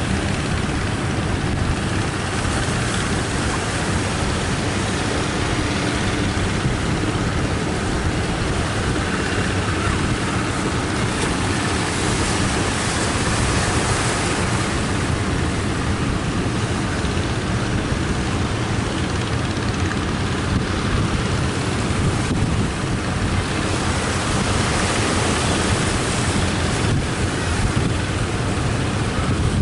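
Strong wind blowing steadily across the microphone, a deep constant buffeting, with surf breaking on the beach beneath it.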